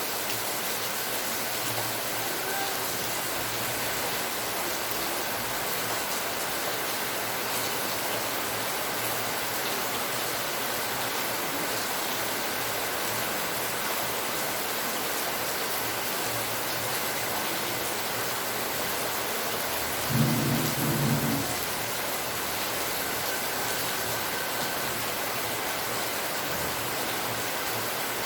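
Steady heavy rainfall. About twenty seconds in, a brief low rumble stands out above the rain for a second or so.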